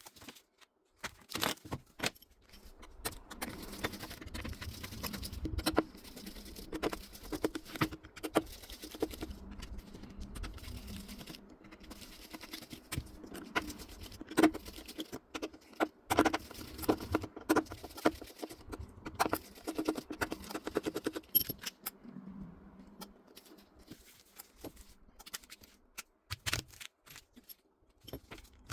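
Small metal repair tools clicking, tapping and scraping against a smartphone's parts, with a steady low hum under much of the middle stretch.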